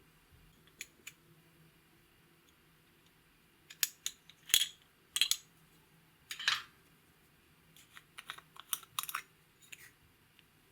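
Sharp clicks and short crackling bursts from slime and makeup being worked by hand. There are two faint clicks about a second in, then louder clusters in the middle and a run of clicks near the end.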